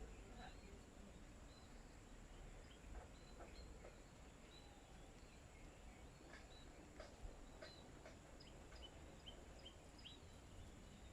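Faint, scattered chirps and short calls of small birds feeding, with a few soft clicks, over a low background rumble.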